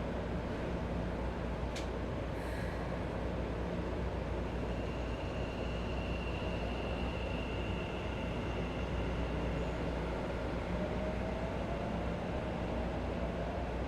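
Interior sound of a Keisei 3050 series train's motor car with a Toyo IGBT-VVVF inverter: a steady rumble, a single click about two seconds in, and near the end a faint tone slowly rising in pitch from the inverter and traction motors.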